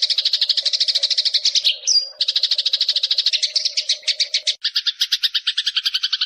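Eurasian tree sparrow giving a long, rapid chattering call of about a dozen notes a second. There is a short break with a brief whistle about two seconds in, and the chatter changes in tone a little past halfway.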